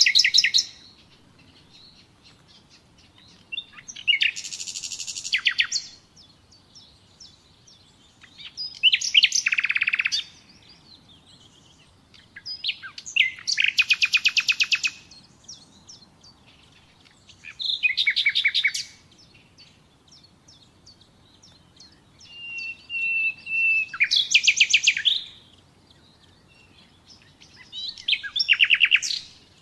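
Common nightingale singing: seven short phrases about every four to five seconds, each a rapid run of repeated notes, one of them opening with a long pure whistle, with quiet pauses between.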